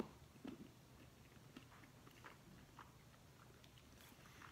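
Faint chewing of a bite of a microwaved Lean Pockets Philly steak and cheese sandwich: scattered small, irregular mouth clicks over near-silent room tone.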